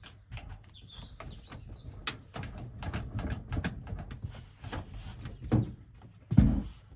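A bird chirping in the first second or so, over scattered knocks and bumps of handling, with one heavy thump near the end.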